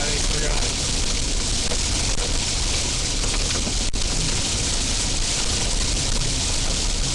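Heavy rain beating steadily on a moving car, mixed with road and tyre noise, heard from inside the cabin.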